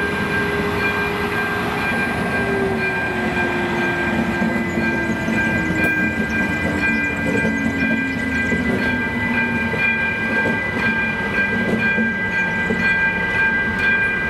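Freight wagons rolling slowly over a level crossing, the wheels rumbling and clacking on the rails, while the crossing's warning bell rings steadily throughout. A low tone slowly falls in pitch over the first several seconds, and the ČD Cargo shunting locomotive pushing the train reaches the crossing near the end.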